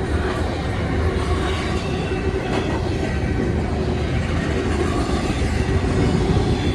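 Freight train rolling past, a steady, unbroken rumble of wheels on the rails.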